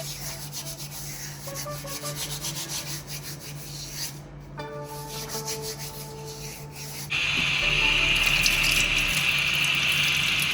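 Soft background music, then about seven seconds in a loud, steady rubbing noise starts suddenly and keeps going.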